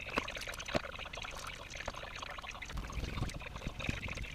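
Rustling and scraping with many small clicks as sheathed electrical wires are fed back up through an old-work box hole into the ceiling.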